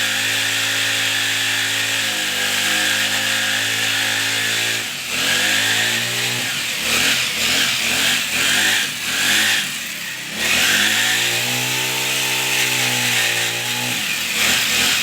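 Brush cutter with a chainsaw attachment cutting wood: its small engine runs at steady high revs, then drops and surges several times, holds high again, and falls off near the end.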